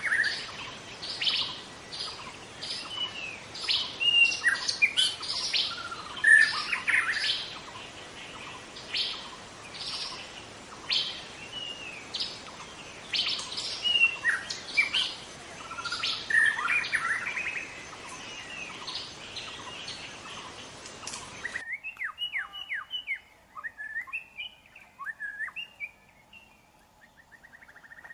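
Young white-rumped shama singing: a run of sharp, repeated notes and short whistles over a steady hiss. About 21 seconds in, the recording cuts suddenly to a quieter passage of quicker, lower chirping notes.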